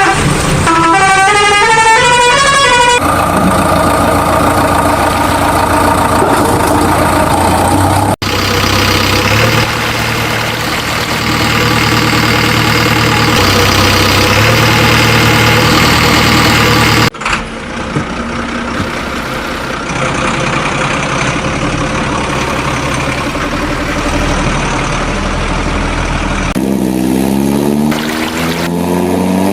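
A heavy vehicle engine running, with a stepped, melodic horn-like tone sequence at the start. The sound changes abruptly twice, and near the end the engine revs up with rising pitch.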